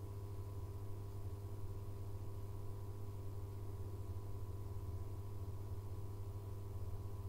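Abukuma Express AB900 series electric train standing still at a station, its onboard equipment giving a steady electrical hum with a strong low drone and a few fainter higher tones.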